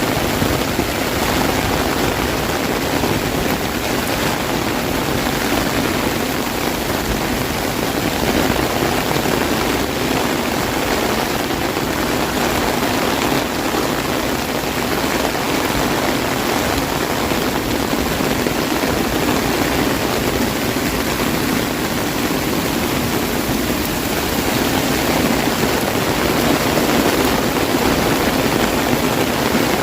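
Heavy rain falling on an umbrella: a dense, steady patter.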